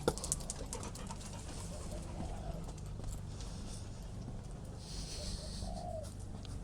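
A bird calling: a few short, low notes a couple of seconds apart, over a steady low rumble, with a brief click at the start.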